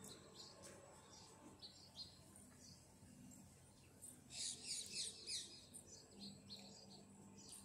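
Small birds chirping in short, scattered calls, with a burst of rapid, louder chirping about four to five and a half seconds in.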